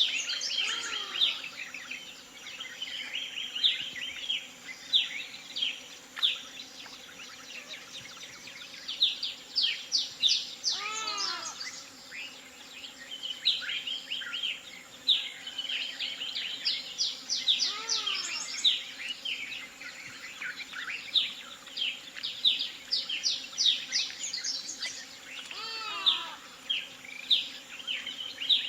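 Recorded forest ambience: a dense chorus of many birds chirping and trilling, with a descending call that comes back about every seven seconds.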